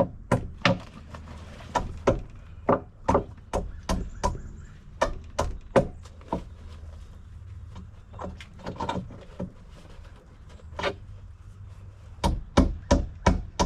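Repeated sharp knocks and bangs on wooden deck boards, irregular at about one or two a second, with a quick run of blows near the end.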